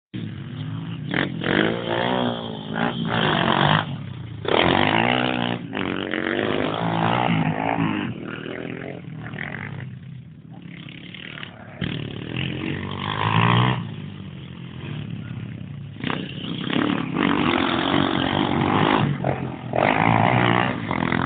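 Pit bike engine being ridden, revving up and dropping back again and again with a rising and falling pitch, easing off for a moment about halfway through before picking up again.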